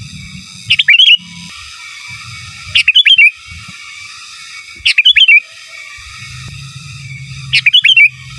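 Sooty-headed bulbul (kutilang) giving short, loud chirping song phrases, four times at roughly two-second intervals.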